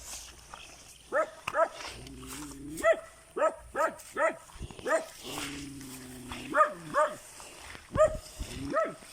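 A dog barking over and over in short, sharp yelps, about a dozen in all. Two longer, lower, drawn-out sounds come between the barks.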